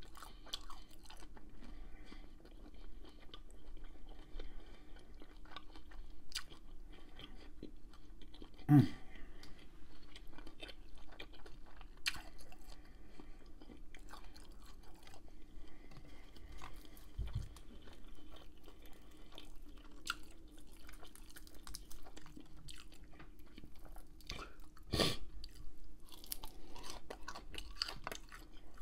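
Close-miked chewing of bacon-wrapped shrimp: a run of small wet mouth clicks and crunches, with a louder sharp click about 9 seconds in and another near 25 seconds.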